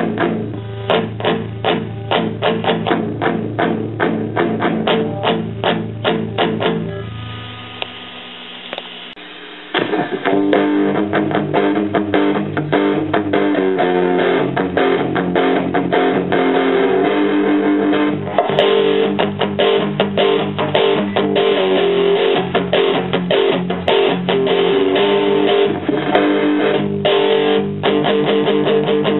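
Electric guitar played through a Roland Jazz Chorus combo amplifier: rhythmic chords for about seven seconds, one chord left to ring and fade, then continuous chord playing again from about ten seconds in.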